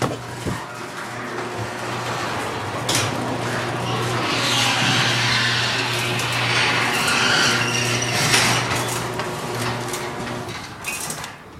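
Garage door opener running a garage door through its travel: a steady motor hum with the rattle of the door moving, stopping about ten and a half seconds in.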